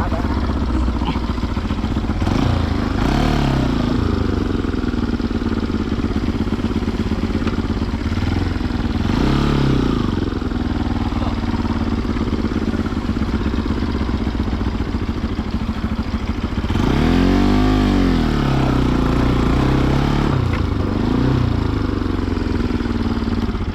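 Motorcycle engine running while riding, its pitch rising and falling several times as the rider speeds up and eases off, over a steady rumble.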